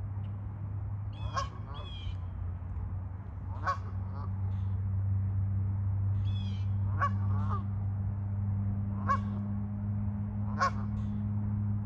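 Geese honking, a call every couple of seconds, over a steady low hum.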